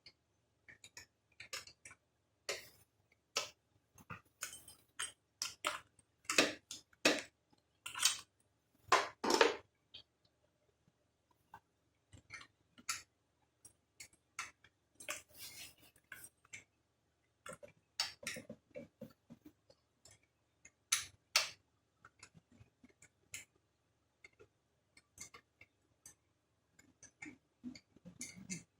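Irregular metallic clicks, clinks and knocks of hand tools and small metal parts being handled, coming in clusters with short pauses. This is hands-on work taking the carburetor off a small four-wheeler.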